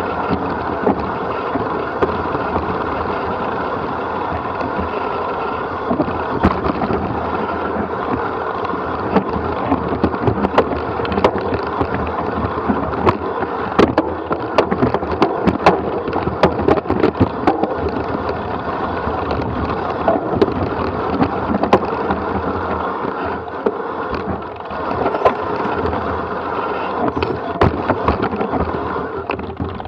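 Steady rolling rattle of a ride down a rough dirt trail, with frequent sharp knocks and clatters from bumps, busiest in the middle, and wind on the microphone.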